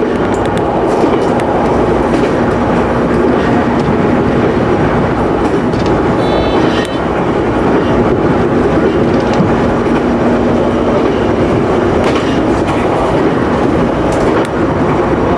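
Local electric train running along the line, heard from on board: a steady rolling and running noise with wheels clacking over rail joints, and a brief high whine about six seconds in.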